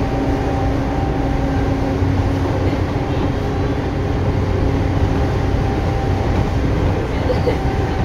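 Tobu 9000 series electric train running: a steady rumble of wheels on rail with a low motor hum. A mid-pitched steady tone fades out about halfway through while a lower hum comes in about two seconds in.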